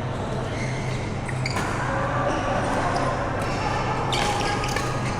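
Badminton rally: sharp racket hits on the shuttlecock, two of them about 1.6 and 4.1 seconds in, over a steady low hum and the general noise of a badminton hall.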